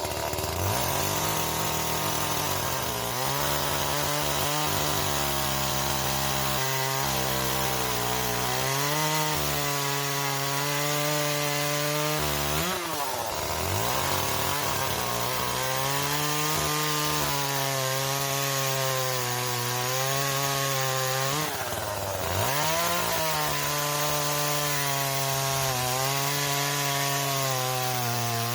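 Chainsaw running at high speed, cutting wood. It revs up at the start, and its pitch dips sharply and recovers twice as it is loaded in the cut.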